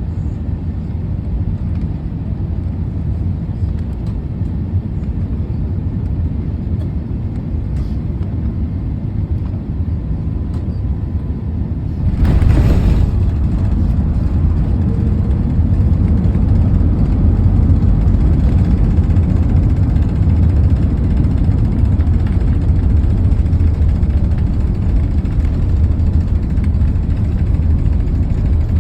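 Steady low rumble of a vehicle in motion, heard from inside. About twelve seconds in, a brief rush of noise comes and the rumble steps up louder and stays there.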